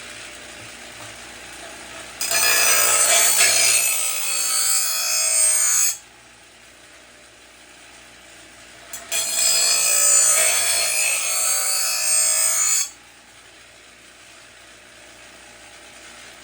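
Lawnmower blade's steel edge ground against a grinder wheel in two passes of about three and a half seconds each, the first starting about two seconds in and the second about nine seconds in, each stopping suddenly.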